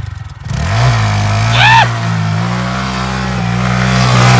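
A mini bike's single-cylinder engine revs up in the first second, then runs held at a steady high speed. About a second and a half in there is a short, high cry that rises and falls.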